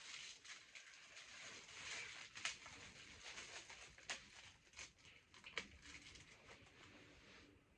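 Faint handling sounds: a few short, soft clicks and light rustles from a plastic pudding cup and spoon being opened and handled, over quiet room tone.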